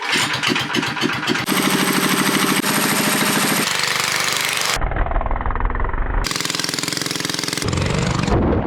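A quick montage of short clips of small motorcycle engines running hard, cutting abruptly from one engine sound to the next about every second or so, with one clip sounding muffled.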